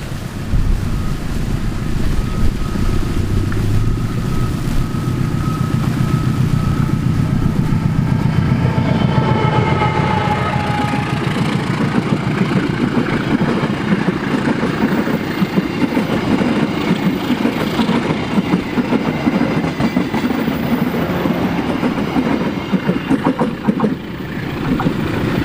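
A train passing close by: a low diesel locomotive rumble, then from about a third of the way in a steady fast clatter of wheels over the rails.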